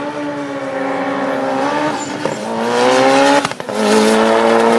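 Nitrous-equipped Mitsubishi Lancer Evolution VI's turbocharged four-cylinder engine at full throttle on a drag run. Its pitch climbs steadily, breaks briefly for an upshift about three and a half seconds in, then climbs again.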